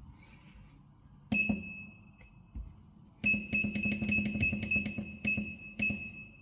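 Metallic clatter at a car wheel balancing machine. A sharp knock with a ringing tone comes about a second in. Near the middle it is followed by about three seconds of rapid ringing clicks over a low hum.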